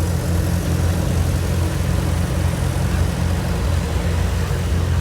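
Vintage farm tractor engine running steadily at low speed, a deep even sound.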